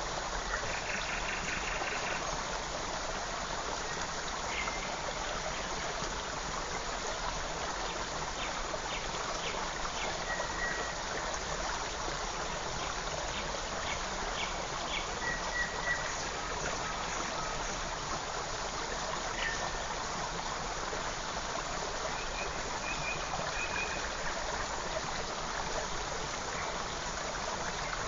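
Forest creek flowing and babbling steadily, with scattered short bird chirps and brief trills over it.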